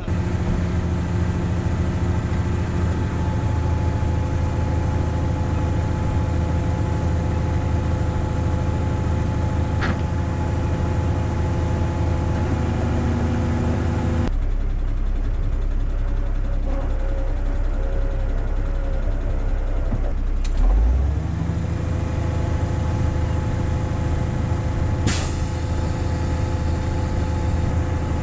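Heavy tow truck's diesel engine running steadily, its note shifting about halfway through, with a brief burst of air hiss near the end.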